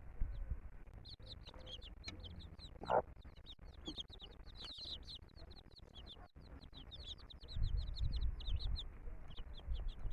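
Baby chicks peeping rapidly and continuously in short, high, falling notes, with a mother hen clucking. A low rumble comes in about three-quarters of the way through.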